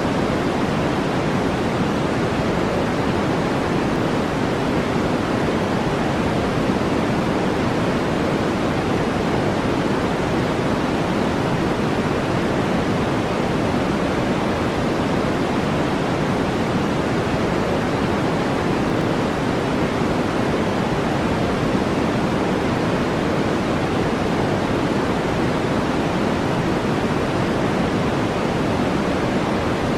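Steady brown noise: an even, unchanging rush, deepest and strongest in the low-mid range and thinning toward the top, with no breaks, strokes or pitch.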